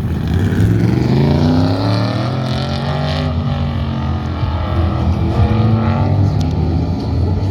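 Autocross race truck's engine at full throttle, its pitch climbing over the first couple of seconds and then holding steady.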